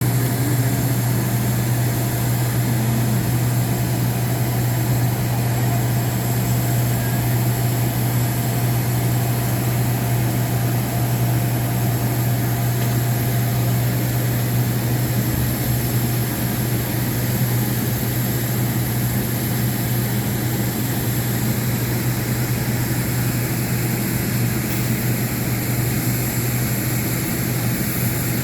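Steady drone of an airliner, heard from inside the cabin: a deep, even hum over a wash of noise that holds unchanged throughout.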